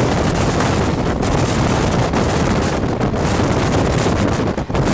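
Wind buffeting the microphone over the steady running rumble of a fast-moving Indian Railways train, heard from on board, with a brief lull near the end.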